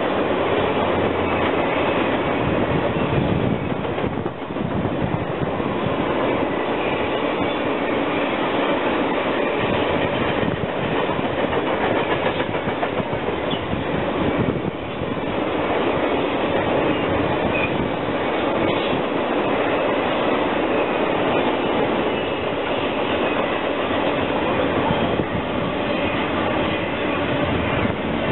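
Passenger coaches and loaded flatcars of a long train rolling past at speed: a steady rumble and clatter of steel wheels on rail, dipping briefly twice.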